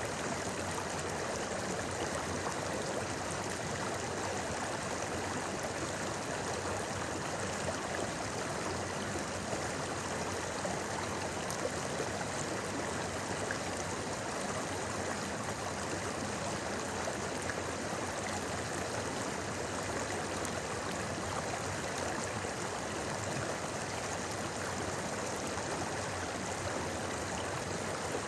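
A clear river running over rocks: a steady rush of flowing water with a fine babble.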